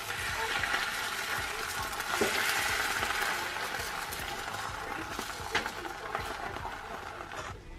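Egg frying in a pan, sizzling steadily, with light clicks of a utensil in the pan.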